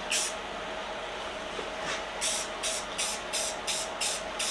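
Aerosol spray paint can hissing in short bursts: one near the start, then a quick series of about three bursts a second from about two seconds in.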